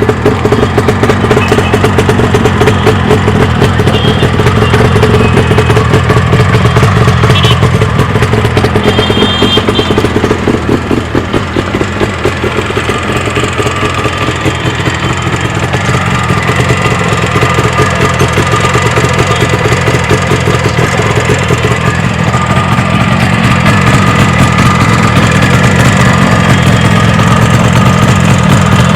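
Yamaha RD350 two-stroke parallel-twin engine running through a 2-into-1 exhaust pipe, a loud, steady, rapid exhaust pulse. Its level dips briefly about eleven seconds in, then holds steady.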